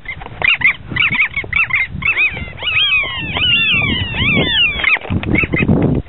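Birds calling in rapid, repeated harsh cries as one swoops close past the microphone, the calls piling up into a dense overlapping chorus from about two to five seconds in. Low wind and handling rumble on the microphone underneath, strongest near the end.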